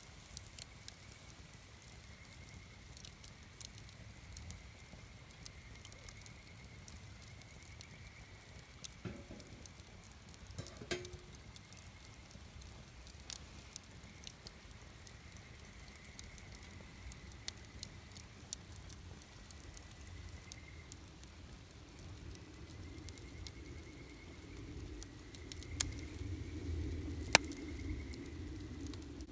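Wood campfire crackling, with scattered sharp pops and two louder snaps near the end. A faint high trill comes and goes in the background, and a low rumble builds in the last third.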